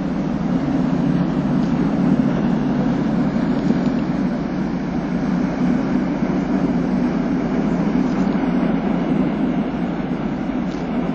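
Steady low rumble from the car ferry Tsubaki's engines, unchanging throughout.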